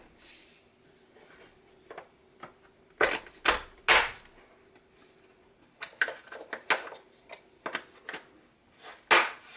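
Knocks and clicks of a plastic Seadoo Sea Scooter being handled, loudest about three to four seconds in, then a run of lighter clicks, over a faint steady hum.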